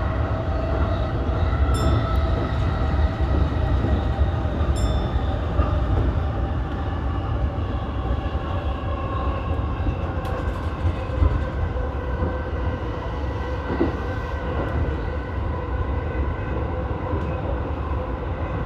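E233-1000 series electric commuter train running, heard from inside the car: a steady rumble of wheels on rail with the whine of the traction motors, which falls slightly in pitch as the train slows for its terminal stop. Two faint clicks are heard about two and five seconds in.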